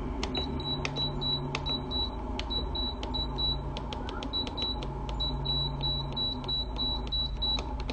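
2005 Gold Star 6500 BTU window air conditioner running on fan only with the compressor off: a steady hum of the blower. Over it come short, repeated high-pitched tone pulses and scattered sharp clicks.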